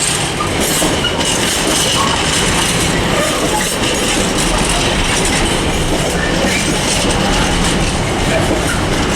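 A South Western Railway Class 444 electric multiple unit running into the station, a steady rumble of wheels on the rails with some clickety-clack and a faint wheel squeal.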